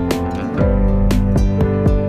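Background music: plucked guitar notes over a steady low bass line.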